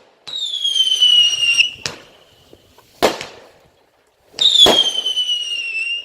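Fireworks going off: two shrill whistles, each sliding slightly down in pitch over about a second and a half, and sharp bangs about two, three and just under five seconds in.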